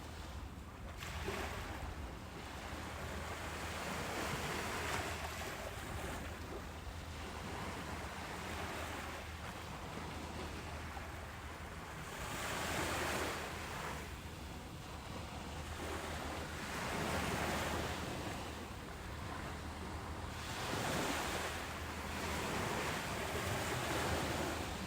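Ocean surf on a beach: waves breaking and washing in, rising and falling in broad surges every few seconds.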